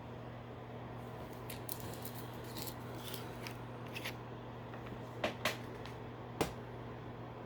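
Small items being handled and rummaged through: a run of light clicks and rattles, with three sharper clacks near the end, over a steady low electrical hum.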